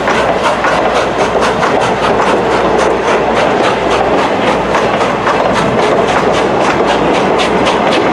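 A passenger train rolling past close by, its car wheels clattering rapidly and steadily over the rail joints.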